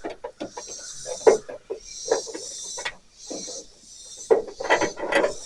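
Hand-tool work on the hood hinge plates: short scraping strokes, three or four of them, consistent with the bolt holes being marked on the metal, with light metallic taps and clicks in between.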